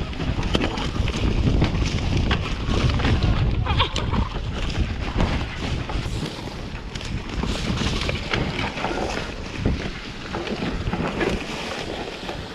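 Wind on the microphone and the rumble and rattle of a Focus Jam² e-mountain bike riding fast down a rough dirt trail, with frequent knocks as it goes over bumps. The rumble is heaviest in the first half and eases off after about six seconds.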